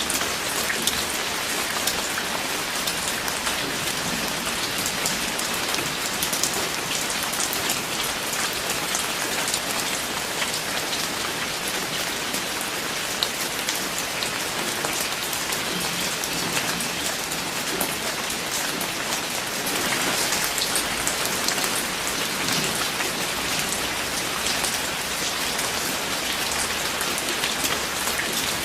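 Steady rain falling, with many individual drops pattering on a surface; it swells briefly a little over two-thirds of the way through.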